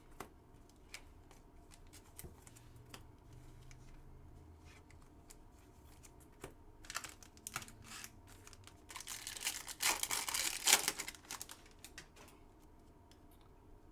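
Trading cards handled and a foil card pack torn open: scattered light clicks and rustling, with a louder stretch of crinkling and tearing about nine to eleven seconds in.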